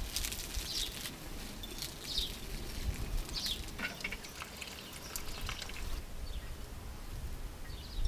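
Small birds chirping a few times over outdoor ambience, with scattered light clicks and taps.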